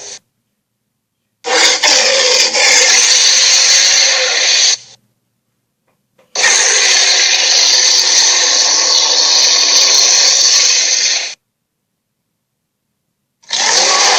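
Sea-serpent sound effects from an animated series: a harsh, rushing noise played in separate blocks a few seconds long, cut off to dead silence between them, three times.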